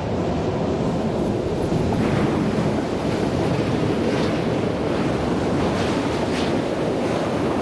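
Freight train of tank wagons, headed by an electric locomotive, passing close below: a steady rumble of wheels on rails, with a few brief higher rattles as the locomotive and first wagons go by. Wind is buffeting the microphone throughout.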